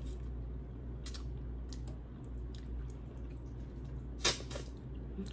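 Mouth sounds of someone eating chicken curry off the bone: soft wet smacks and clicks, with one sharper click about four seconds in, over a low steady hum.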